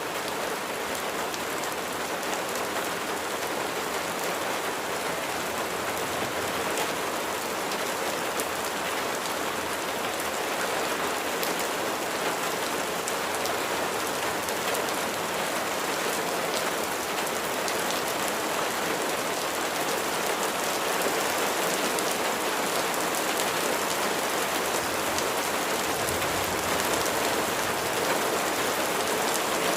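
Steady rain falling and pattering on surfaces, a dense even hiss with fine drop ticks, growing slightly louder toward the end.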